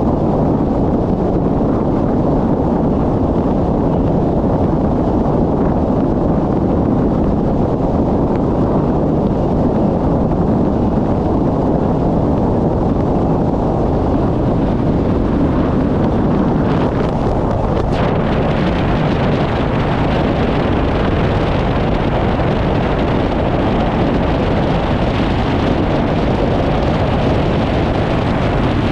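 Wind buffeting the microphone on a moving motorcycle, a steady loud rush with the ride's engine and road noise underneath. A little over halfway through it turns hissier.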